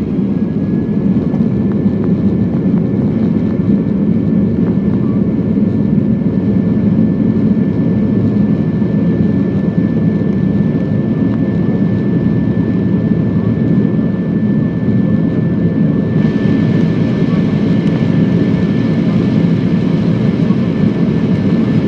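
Airliner jet engines running loud and steady during takeoff, with a thin steady whine above the deep noise. About sixteen seconds in, a brighter hiss joins in.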